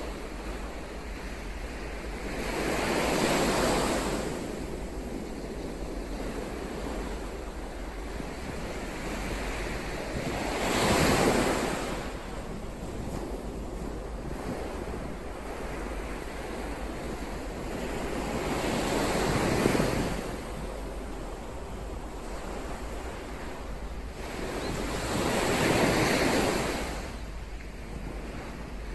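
Ocean waves surging in one after another: four swells, each building and fading over a few seconds, about seven to eight seconds apart. Wind rumbles low and steady on the microphone underneath.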